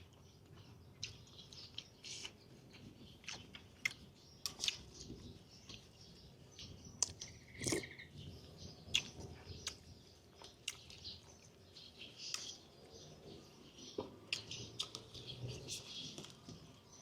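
Faint clicks and smacks of someone chewing chicken, with small birds chirping in the background.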